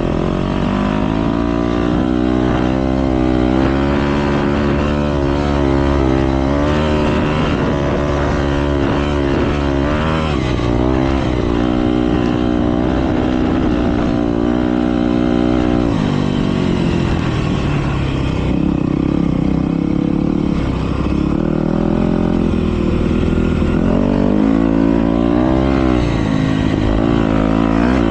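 Motocross bikes racing round the track, several engines revving up and down and overlapping as the riders accelerate and shut off through the course.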